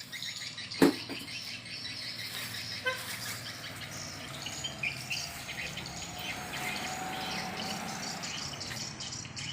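Swiftlets twittering: a dense, continuous mass of rapid high chirps, from the swiftlet lure call played at low volume and the birds answering it. A single sharp knock sounds about a second in.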